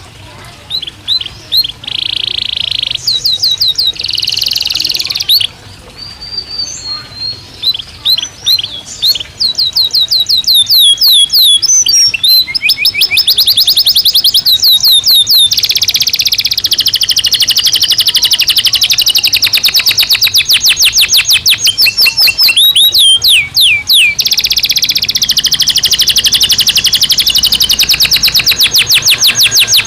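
Domestic canary singing: trills of rapidly repeated high notes, in short separate phrases at first, then running on almost without a break from about a third of the way in.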